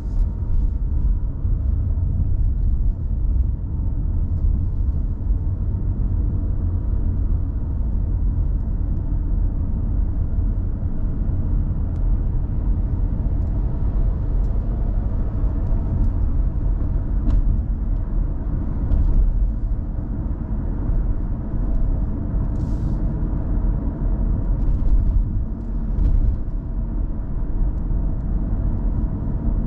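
Steady low rumble of a car driving on the road, with scattered faint ticks.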